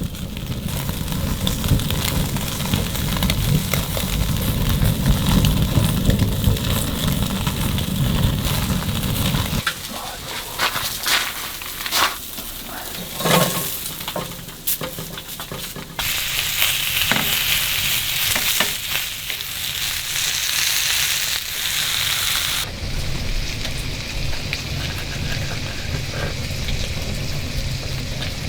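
Beef short ribs sizzling on a fish grill as they are pre-seared. About ten to sixteen seconds in there are several sharp clicks and knocks of the meat being handled, then a bright, louder sizzling hiss for several seconds.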